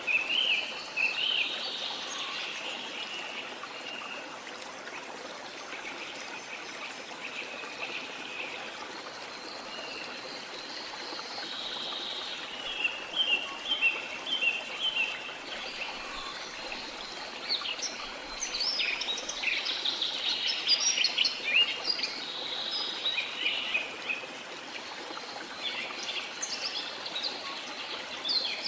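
Steady rush of falling water from a waterfall, with tropical rainforest birds calling over it in many short chirps and trills that come in bursts, busiest in the middle.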